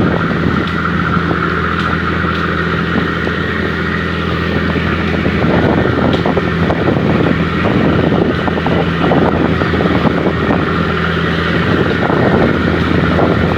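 Passenger ferry under way: its engines drone steadily with a constant hum, under a rushing noise.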